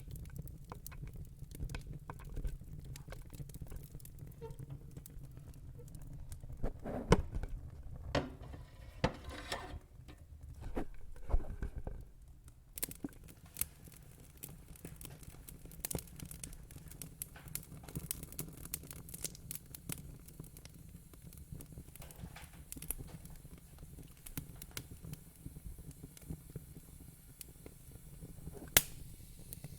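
Fire crackling: irregular small pops and snaps over a low steady rumble, with a few louder snaps about seven and eleven seconds in and near the end.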